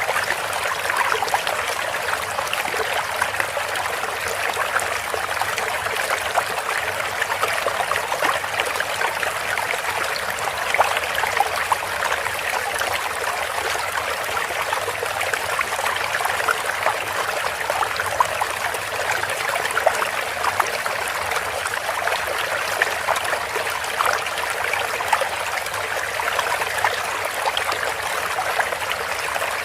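Water trickling and splashing steadily over stones or a small fall, with many small splashes.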